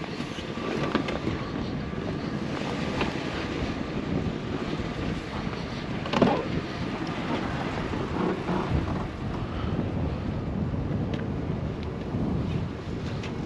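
Steady wind noise buffeting the microphone, with a few faint knocks.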